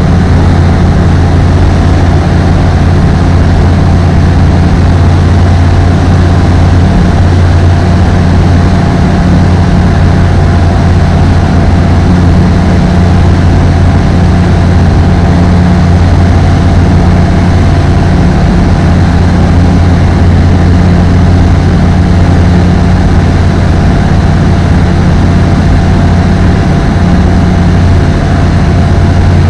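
ApolloFox microlight's engine and propeller running loud and steady, a constant low drone with a faint thin whine above it.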